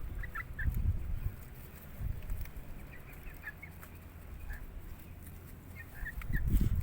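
Chickens making scattered short, soft calls, with low rumbles about a second in, near two seconds and near the end.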